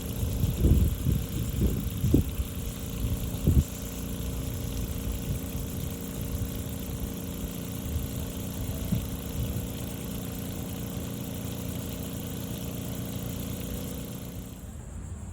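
An engine running steadily at idle, a low hum with a few low thumps in the first four seconds.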